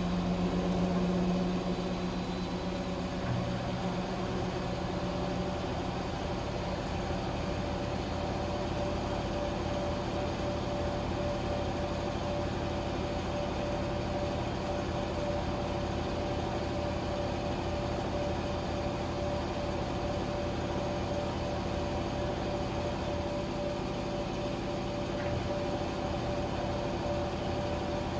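Washing machine running: a steady motor hum with a faint whine. Its tone shifts in the first few seconds as a low hum drops away and a higher whine takes over.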